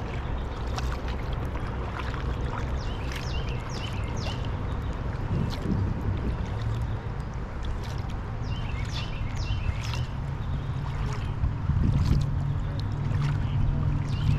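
Water sloshing and gurgling around a kayak as it is paddled, with a low rumble of wind. Twice a bird calls a quick run of short, high, descending notes.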